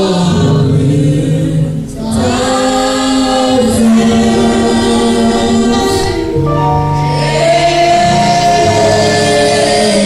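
A choir singing in harmony, holding long chords, with short breaks between phrases about two and six seconds in.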